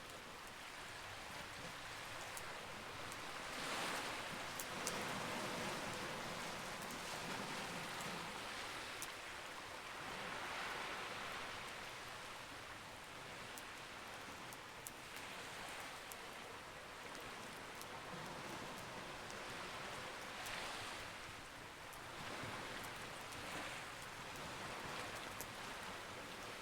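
Campfire crackling with scattered sharp pops, over a steady wash of sea waves that swells every five or six seconds.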